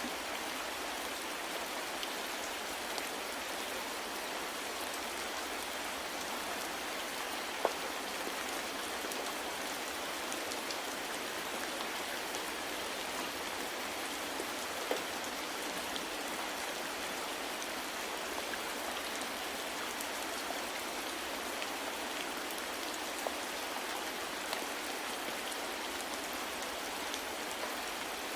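Steady, soft rain with occasional louder single drops.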